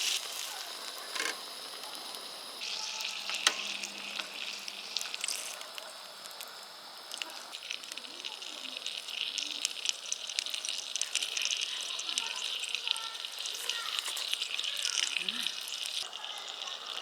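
Food sizzling in a hot pan: a steady frying hiss with small pops and crackles, getting louder a few seconds in.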